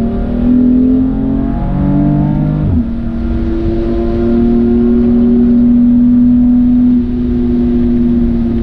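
Car engine under hard acceleration, its revs climbing in steps through the gears, then falling sharply a little under three seconds in as the driver lifts off. It then pulls steadily and slowly rises again before easing off near the end.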